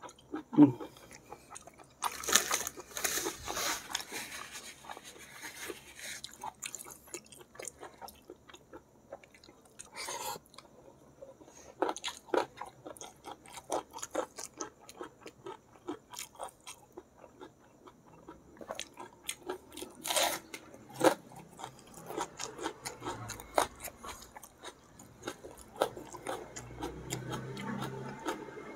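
Close-up chewing of jumbo squid cooked in balado chili sauce: a steady run of small wet clicks and smacks, with louder bites about two seconds in, around ten seconds and around twenty seconds.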